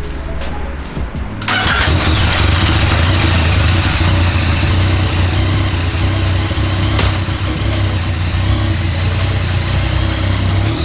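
Yamaha MT-09's 847 cc inline-three engine starting about a second and a half in, then idling steadily.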